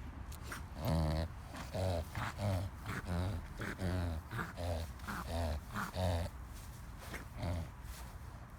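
Dog having a reverse-sneezing episode: a fast run of short, forceful pulls of breath through the nose, about three a second, then a pause and one last one.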